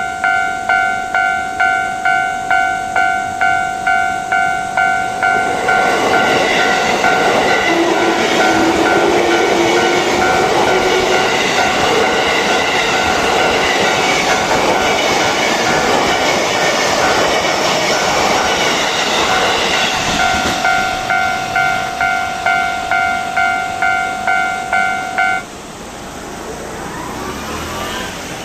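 Japanese level-crossing warning bell ringing in a steady, rapid ding-ding, about two and a half strikes a second, while a Kawagoe Line train passes through the crossing for about fifteen seconds with a loud rush of wheel and rail noise. The bell stops suddenly near the end.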